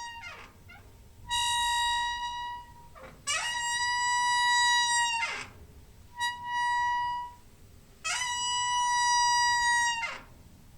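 Squeaking door hinge: four long, steady, high-pitched squeals of one to two seconds each, with short gaps between them, each beginning and ending with a brief sliding sweep in pitch.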